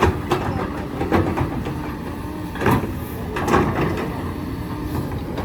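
Diesel engine of a hydraulic excavator running steadily, with a few short scrapes and clunks of the bucket working limestone rock.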